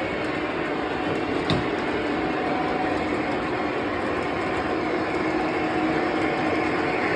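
Lionel Legacy AC6000 O-gauge model locomotive running on track: a steady rumble of wheels and motors mixed with its RailSounds diesel engine drone, with one sharp click about a second and a half in.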